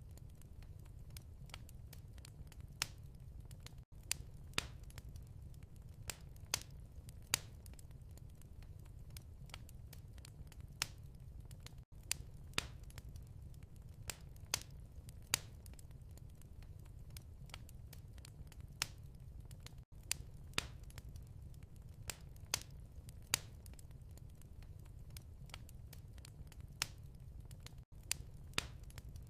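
Fireplace crackling: irregular sharp pops and snaps of burning wood over a steady low rumble. The sound briefly drops out about every eight seconds.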